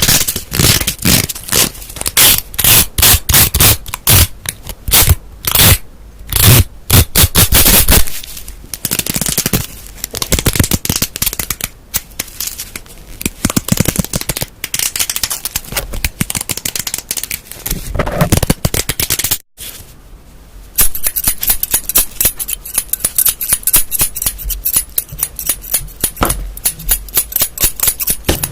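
Close-miked ASMR handling sounds of an object: rapid, loud tapping and clicking at first, turning into a dense crackling and scratching. The sounds stop for about a second near the two-thirds mark, then come back as a fine, bright crackle.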